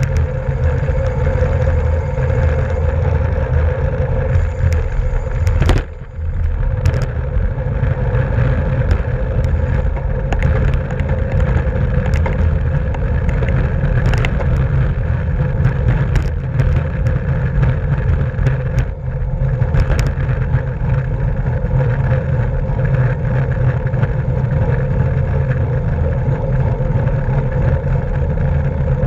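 Wind buffeting the microphone of a camera on a racing bicycle, with steady road rumble and scattered clicks and knocks from the bike. There is a brief dip in the noise about six seconds in.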